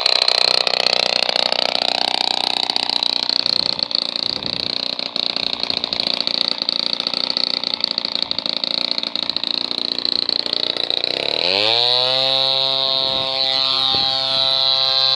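The small two-stroke brush-cutter engine of a homemade fixed-wing aircraft running steadily and loud. About eleven seconds in, its revs climb quickly and hold at a higher, steady pitch.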